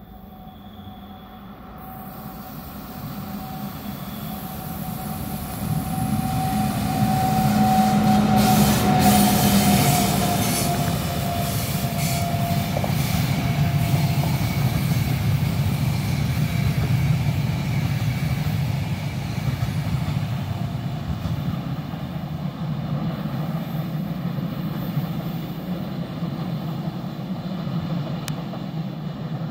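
Electric-locomotive-hauled passenger train approaching and passing, its rolling noise building over the first several seconds and staying loud as the coaches go by. A steady high whine drops slightly in pitch as the locomotive passes.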